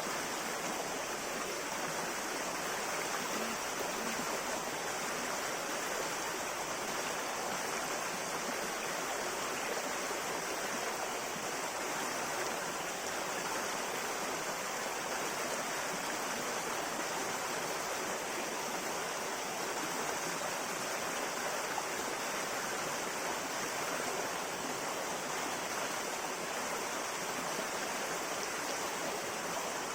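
Steady rushing of a shallow river flowing over stones, an even, continuous water noise with no breaks.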